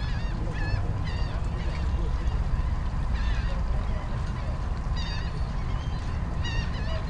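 Waterbirds calling in short honking cries, in small clusters every second or two, over a steady low rumble.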